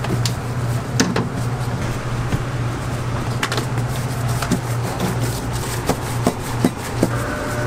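Scattered light clicks and knocks of hands at work at a donut stall, over a steady low hum.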